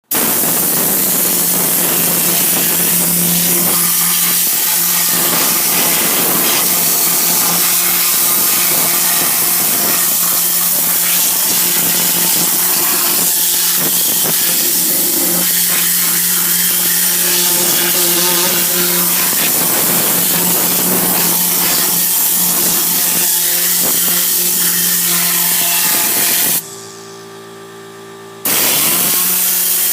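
Air-powered detailing gun (Tornador type) blowing a loud, steady hiss of compressed air over a low steady hum. The air cuts off for about two seconds near the end, leaving only the hum, then starts again.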